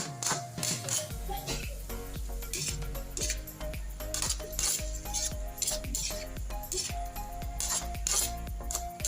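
Metal utensil clinking and scraping against cookware as food is stirred, many sharp clicks in quick succession, over background music.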